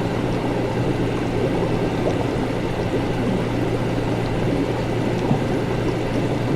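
Continuous bubbling, gurgling liquid in laboratory apparatus over a steady low hum, with a few faint high ticks.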